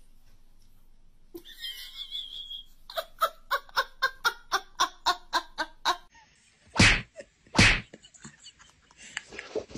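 A person laughing in a quick run of ha-ha pulses, about four a second, for roughly three seconds. Then come two short, loud, breathy bursts less than a second apart.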